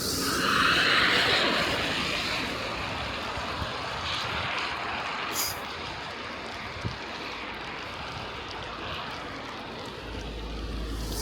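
Steady rushing noise of riding a bicycle along a snowy street: tyres hissing over the snow and wind on the microphone. It swells louder about a second in and again near the end, with a few faint clicks in between.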